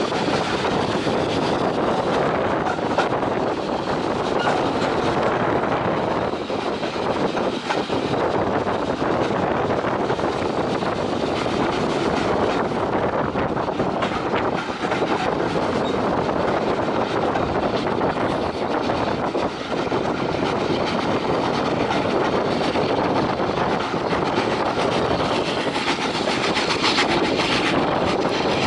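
Heritage railway passenger carriage running along the track at speed, heard from an open window: the steady running noise of wheels on rail mixed with air rushing past.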